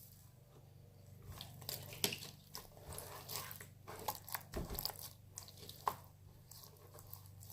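Slime being squished and worked by hand, a run of irregular sticky clicks and crackles for several seconds.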